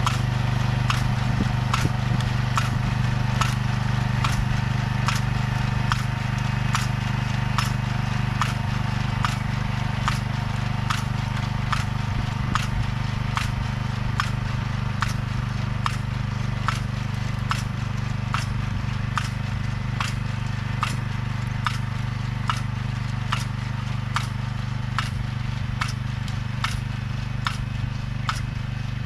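Vegetable transplanter's small engine running steadily, with a regular mechanical click about three times every two seconds as the machine works.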